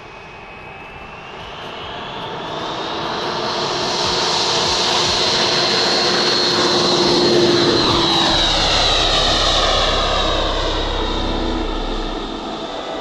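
Jet engine of a radio-controlled model MiG-29OVT jet during takeoff. A high whine rises in pitch and grows louder, peaking about two-thirds of the way through, then drops in pitch and fades a little as the model passes and climbs away.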